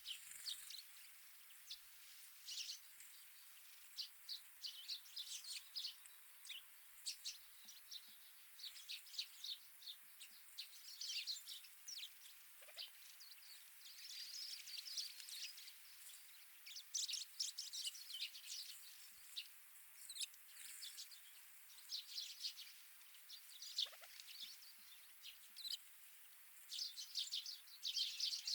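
Wild birds chirping: many short, high-pitched notes in quick clusters, coming and going throughout, over a faint steady hiss.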